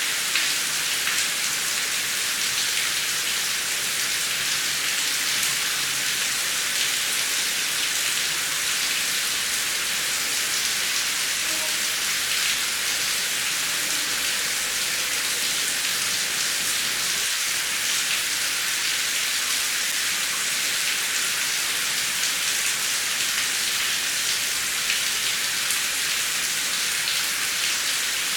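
Heavy rain falling steadily, a continuous even hiss with scattered drops pattering on a surface.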